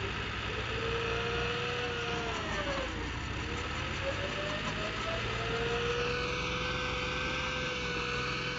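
Tractor engine running steadily, its pitch sagging about three seconds in and then climbing back, as the engine changes with load or throttle.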